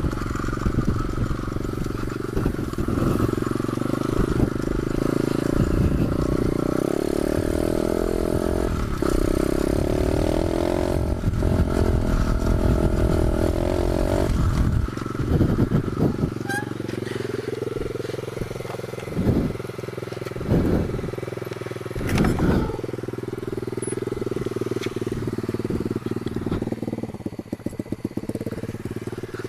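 Pit bike engine running while being ridden. The revs hold fairly steady for the first half, then drop and rise and fall, with several quick blips of the throttle.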